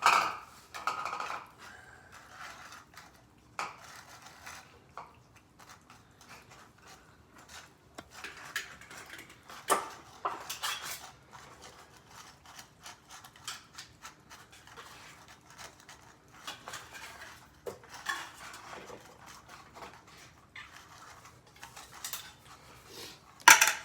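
Clinks and scrapes of dishes and a utensil at irregular intervals, as cat food is dished out into bowls.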